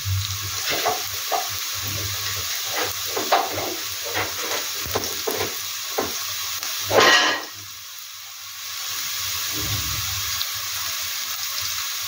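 Sliced onions and green pepper frying in oil in a pan over medium heat as they caramelize: a steady sizzle with frequent short crackles, and one louder burst about seven seconds in.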